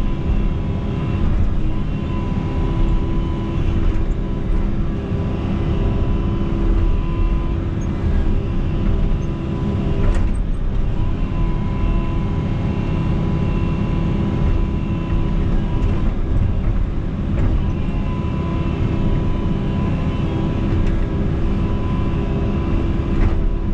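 Excavator's diesel engine running steadily while the machine digs and pushes, with one sharp knock about ten seconds in.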